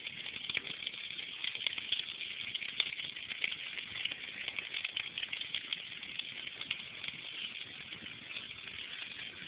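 Bonfire crackling: a steady hiss dotted with many irregular sharp pops and snaps.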